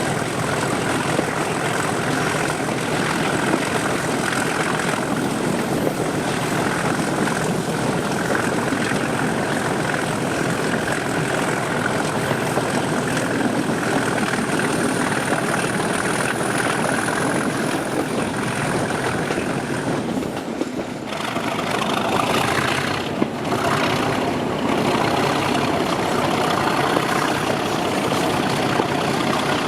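English Electric 12CSVT diesel engine of a Class 37 locomotive working a train, heard from the coaches behind it, with a steady high whine over the engine noise. The sound briefly dips and changes about two-thirds of the way through.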